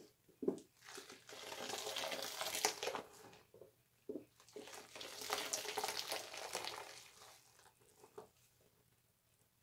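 Bar soap being lathered on a wet loofah: two long scrubbing passes with a wet, crackly squish, and a few short squelches between them.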